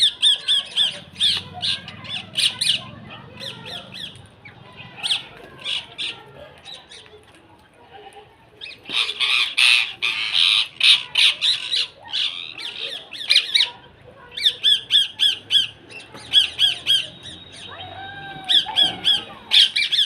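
Birds calling: short, high calls repeated in quick runs of several a second, with a dense burst of overlapping calls about halfway through.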